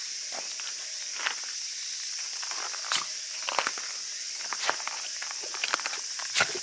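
Irregular footsteps on a walk, with a steady high insect drone behind them, as of summer katydids or cicadas.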